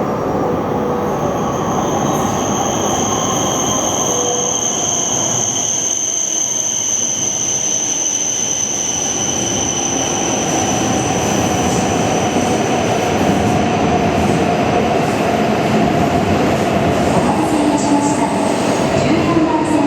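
Shinkansen train moving along the platform: steady running noise of the cars with a high, steady squeal that fades out about fifteen seconds in.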